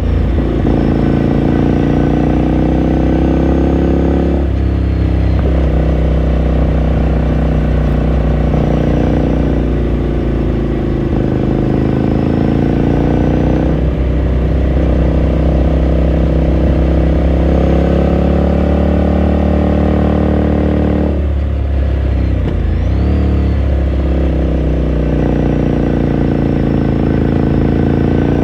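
2018 Ducati Scrambler Sixty2's air-cooled 399 cc L-twin engine pulling under way. Its exhaust note climbs steadily in pitch and breaks off at each gear change, about three times, with a rougher dip near the end before it picks up again.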